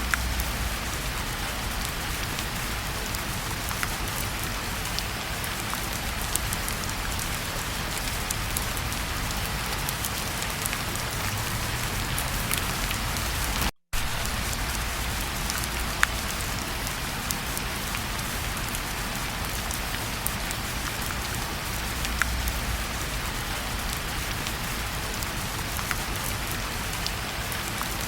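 Steady rain falling, an even hiss with scattered sharp ticks of drops. The sound cuts out for a split second about halfway, then carries on unchanged.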